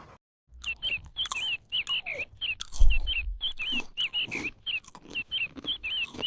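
A small animal calling in rapid, short high chirps, about three a second, over crunching, chewing-like clicks.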